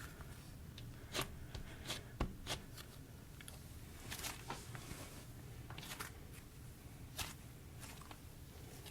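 Soft clay-type slime with sprinkles mixed in being squeezed and worked by hand, giving irregular sharp little clicks and pops.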